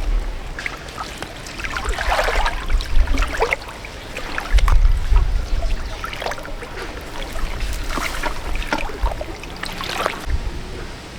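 Water splashing and sloshing in irregular bursts, with low rumbles of wind on the microphone.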